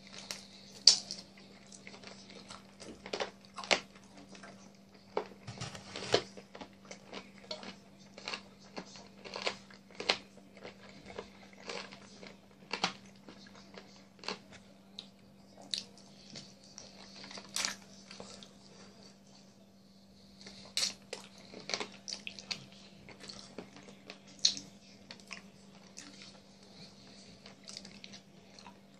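Close-up eating sounds of fried chicken and creamy pasta being chewed: wet mouth smacks and sharp clicks coming irregularly, several a second in bursts, over a steady low hum.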